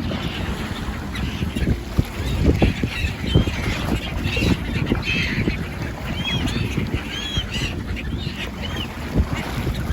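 A flock of birds calling again and again with short, arched cries, over a steady low rumble.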